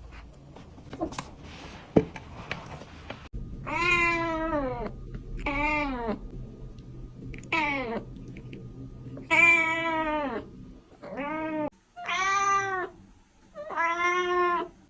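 Kitten meowing repeatedly: seven separate meows from about three seconds in, several sliding down in pitch. Before them, faint rustling and a sharp click about two seconds in.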